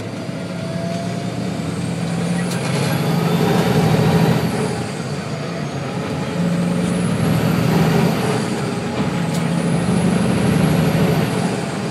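Truck engine accelerating hard through three pulls, getting louder with each and easing off in between. A high whine climbs with each pull and drops away as it lets off.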